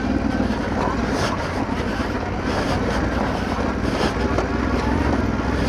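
Motorcycle engine running steadily while riding steeply downhill over a rough track, with scattered knocks from the bike over the uneven ground.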